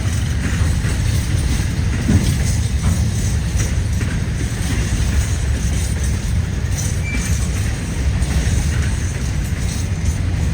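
Train running past with a steady low rumble, and a brief high squeak about seven seconds in.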